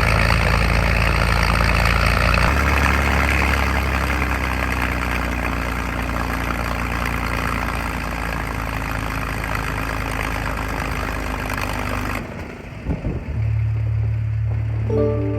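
North American P-51 Mustang's Merlin V-12 engine running steadily, its note changing about two and a half seconds in. The engine sound cuts off abruptly about twelve seconds in, and music takes over.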